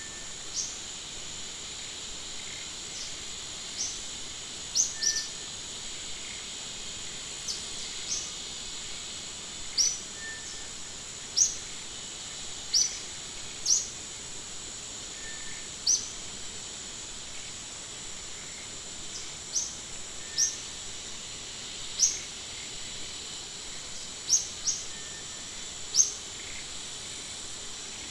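Outdoor forest ambience: a steady high-pitched insect drone, with short, sharp upward-sweeping bird chirps every second or two, some in quick pairs.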